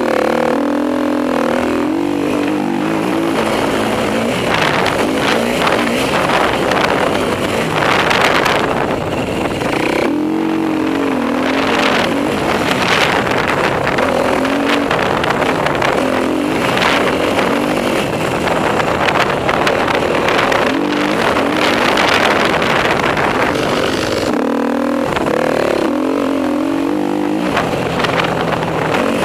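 Off-road motorcycle engine ridden hard round a motocross track: revs climbing and dropping over and over as the throttle is opened and shut through gear changes and corners, with short throttle-off lulls about ten seconds in and again near the end.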